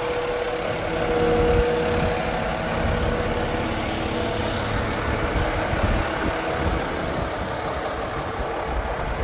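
Volvo FH 500 truck's 13-litre six-cylinder diesel idling steadily, with a faint steady whine over the rumble in the first couple of seconds.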